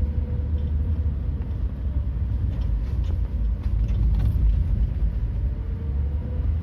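Truck engine running with a steady low rumble, with a few short knocks and rattles about halfway through.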